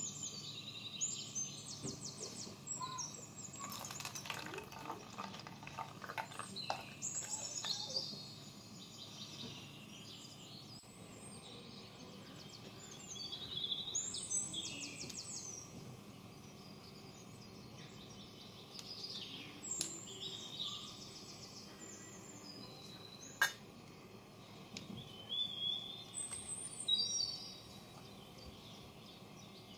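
Small birds chirping and giving fast high trills on and off. There is light clattering a few seconds in and one sharp click near the end.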